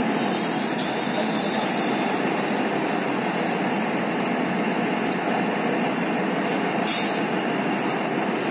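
Indian Railways DEMU diesel multiple unit running steadily as it creeps to a stop at a platform. A thin, high-pitched squeal, typical of brakes or wheels, comes in the first two seconds, and a single sharp clink about seven seconds in.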